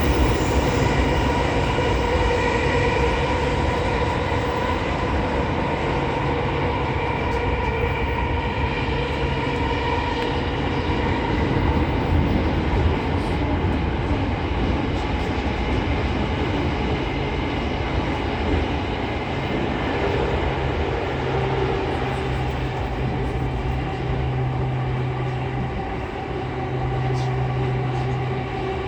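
Running sound heard inside a JR East E231 series 800 commuter train travelling through a subway tunnel between stations: a steady rumble of wheels on track with a constant mid-pitched whine from the drive equipment, at an even speed.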